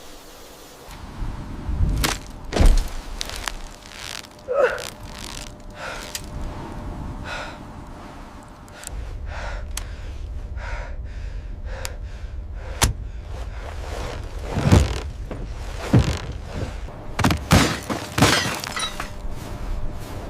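A series of heavy thuds and crashing impacts, some with breaking or shattering, over a steady rushing noise that starts about halfway through.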